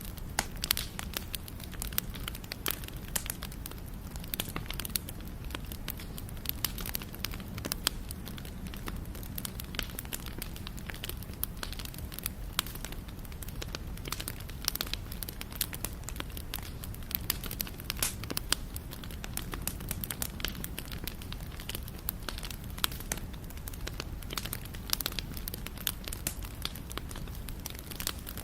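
Wood fire crackling: a steady low rumble of the flames with many sharp irregular pops and snaps.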